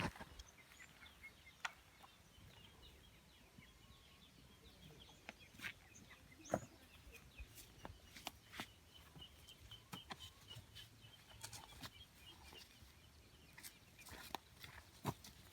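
Near silence: faint outdoor background with scattered light clicks and taps, and a faint high chirp repeated a few times a second through the middle.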